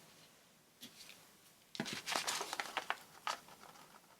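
Paper and card rustling and crinkling as journal pages are handled, a flurry of short crackles starting about halfway through.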